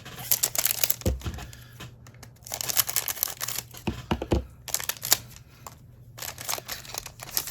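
Trading cards and their packaging being handled: crinkling and rustling in four bursts, with a couple of low thumps about a second and four seconds in.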